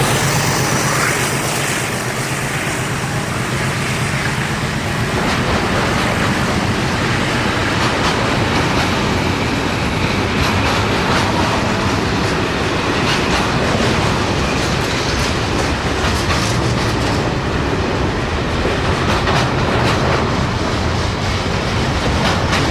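A freight train's wagons rolling past with a steady rumble, their wheels clicking and knocking over the rail joints in an uneven run of clacks.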